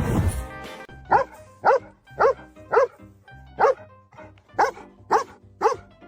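A dog barking over and over, about two barks a second, starting about a second in, with faint background music underneath.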